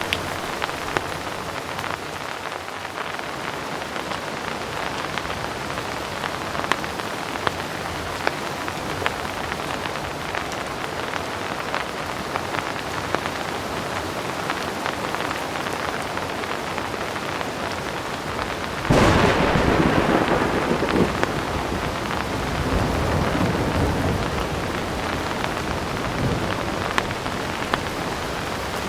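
Heavy rain falling steadily, with scattered sharp drop ticks. About two-thirds of the way through, thunder breaks in suddenly as the loudest sound and rolls on for several seconds before fading back under the rain.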